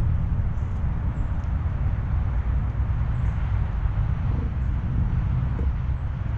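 Steady low outdoor rumble, with a few faint, very high chirps from small birds.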